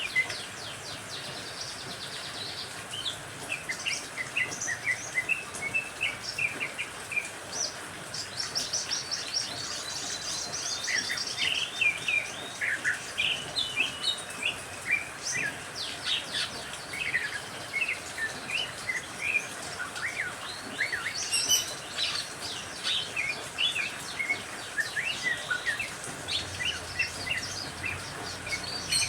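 Several songbirds twittering in quick, overlapping chirps, trills and sweeps over a steady rain-like hiss.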